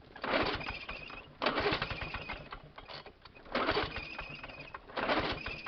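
A 1980s Lawn Boy two-stroke mower engine being pull-started cold: four pulls on the recoil starter about a second and a half apart, the engine firing briefly on each pull and dying away without settling into a run.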